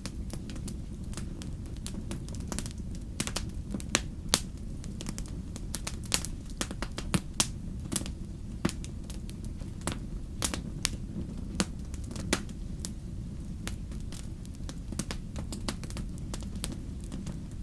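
Wood fire crackling in a fireplace: a steady low rumble of the flames with frequent sharp, irregular pops and snaps, a few of them louder.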